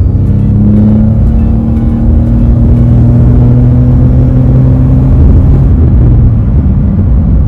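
Lexus RX450h's V6 engine running hard at steady high revs under full-throttle acceleration, heard from inside the cabin. The engine note holds one level pitch, as a hybrid's continuously variable drive keeps the revs fixed while speed climbs, then fades near the end.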